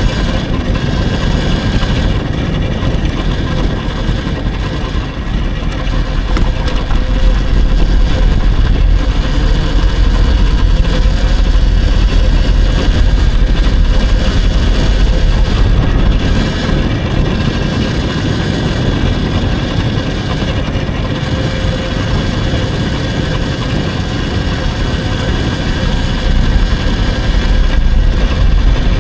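Wind buffeting the microphone with a heavy rumble while riding an electric dirt bike, and the bike's motor whine and tyre noise underneath. The noise swells and eases with the riding speed.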